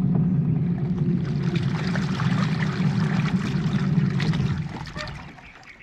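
Old washing machine's motor driving the wash drum through a belt tightened with masking tape, churning a full load of laundry in water: a steady low hum with sloshing. It slows and fades away near the end.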